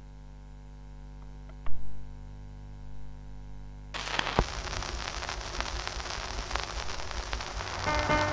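Surface noise of a 78 rpm shellac record: a low hum with a single thump about two seconds in, then steady hiss and crackle from about halfway. Faint guitar notes begin near the end.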